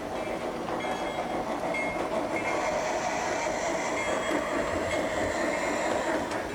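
Model train running on the layout's track with a continuous fine rattle of wheels over the rails. A faint high whine comes in about two and a half seconds in and stops shortly before the end.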